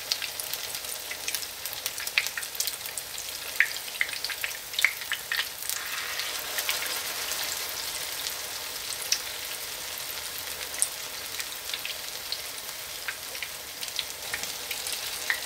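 Potato pancakes frying in hot sunflower oil in a pan: a steady sizzle with scattered sharp crackles and spits throughout.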